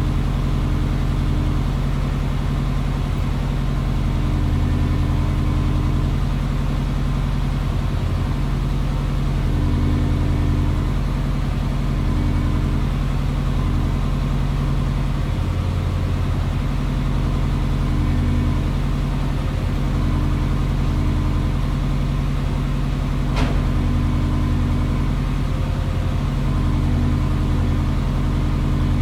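Subaru engine idling after a cold start through a straight-through exhaust (3-inch downpipe and centre section, 2.5-inch Scorpion rear section): a steady, deep note with a slight uneven pulsing. A single sharp click sounds once, about three-quarters of the way through.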